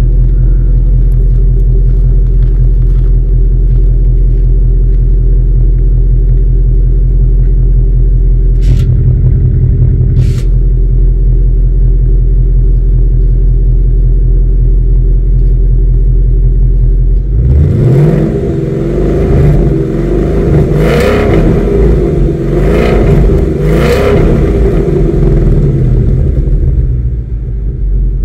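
Ford Mustang 5.0 V8 idling steadily through its valved exhaust with the valves closed, then blipped up several times in quick rising-and-falling revs about two-thirds of the way through, settling back to idle near the end. Two short clicks come earlier over the idle.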